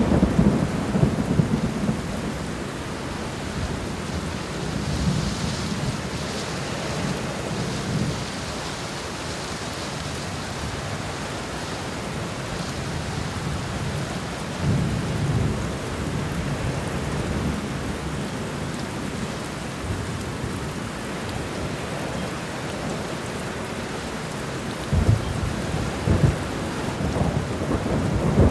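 Thunderstorm: steady heavy rain with low rumbles of thunder rolling in and out, strongest at the start, about halfway through and again near the end.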